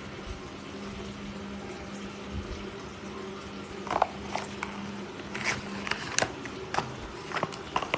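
Steady low hum and hiss, then from about four seconds in a string of sharp clicks, taps and rustles of something being handled.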